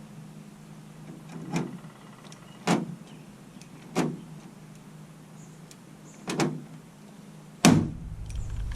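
Hand pop-rivet gun being squeezed, making five sharp clicks about a second or so apart. The last click is the loudest and is followed by a low rumble. A steady low hum runs underneath.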